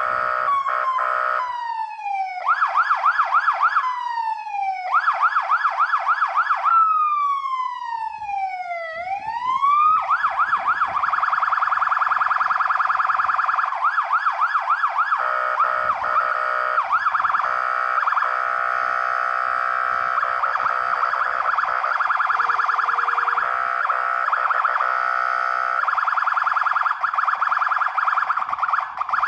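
Fire engine siren cycling through its tones: a fast warble, then bursts of rapid yelp broken by falling sweeps, and a long sweep down and back up about nine seconds in. From about ten seconds it runs a dense, fast-warbling mix of tones that changes pattern several times.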